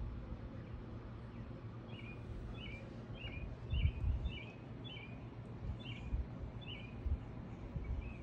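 A small bird chirping over and over, about two short falling chirps a second for several seconds. Under it runs a low background rumble with a few dull bumps partway through.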